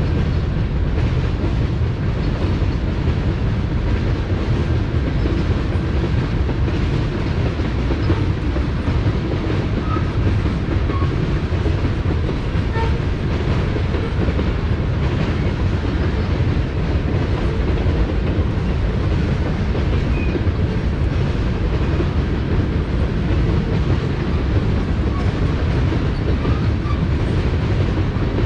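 Norfolk Southern manifest freight train's cars rolling steadily past, the sound of steel wheels running on the rails.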